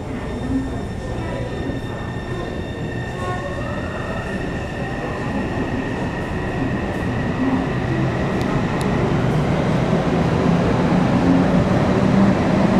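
Taipei Metro C301-type train with its refitted propulsion system pulling away and gathering speed. A high electric whine from the drive sets in about a second in, over a rising rumble of the running gear, and the whole sound grows louder throughout.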